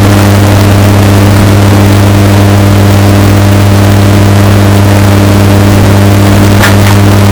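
Washing machine running with a steady low motor hum, bass-boosted and heavily distorted at near full volume, with a few faint ticks near the end.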